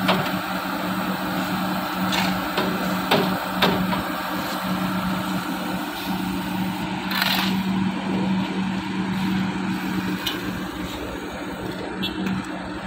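A heavy engine running steadily with a low hum, with several sharp knocks and a short hiss-like burst about seven seconds in.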